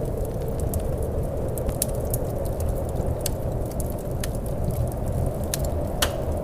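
Wood fire crackling in a fireplace, with sharp pops every second or so, the loudest near the end, over a steady low rumble of wind.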